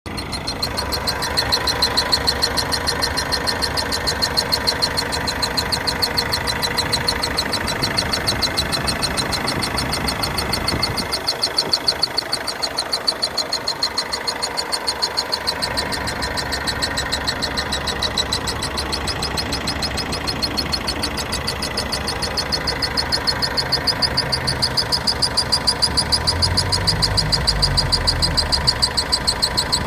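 2013 Corsa's 1.3 CDTI four-cylinder diesel engine idling with a fast, even ticking: the strange noise that the owner is asking about.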